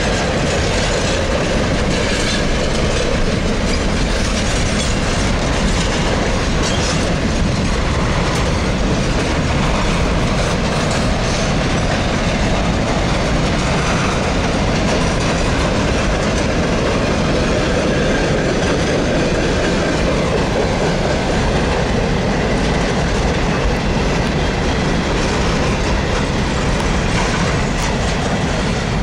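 Freight train of container and flatbed wagons rolling past: a loud, steady run of steel wheels on the rails.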